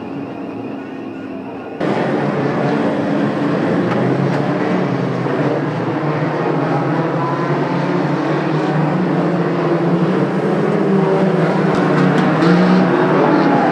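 Oval-racing car engines running hard as a pack laps the track, a steady mixed engine drone. About two seconds in it jumps abruptly to a louder, fuller engine sound.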